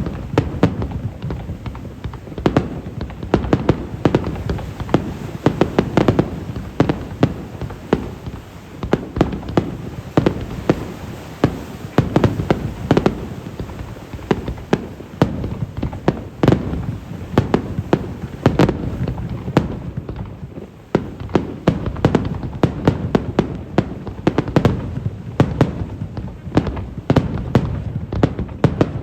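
Fireworks going off in rapid succession: a dense run of bangs and crackling bursts, many a second, over a rolling low rumble, easing briefly about two-thirds of the way through before picking up again.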